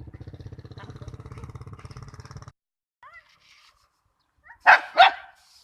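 A dog barks twice in quick succession near the end, loud and short. Before that, a steady low pulsing engine-like sound runs and cuts off suddenly about two and a half seconds in.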